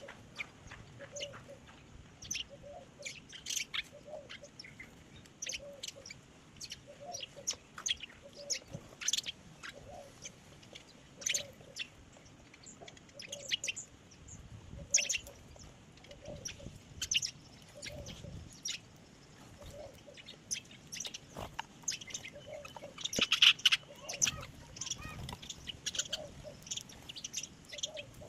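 Small birds chirping in many short, sharp calls, with a louder flurry of chirps about three quarters of the way through. A low, short note repeats about once a second under the chirping.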